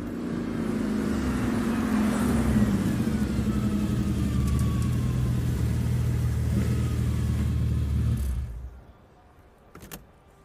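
Ferrari 250 GTO's V12 engine running as the car drives up, growing louder, its pitch falling, then cutting off about eight seconds in. A single click near the end.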